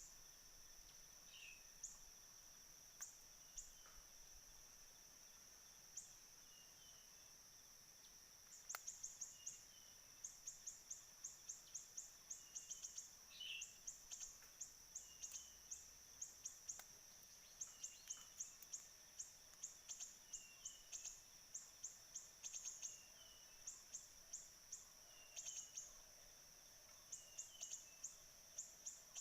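Faint siri-siri bird calls: repeated quick runs of sharp, high chirps, thickening about nine seconds in, with short falling chirps between them. A steady high insect drone runs beneath.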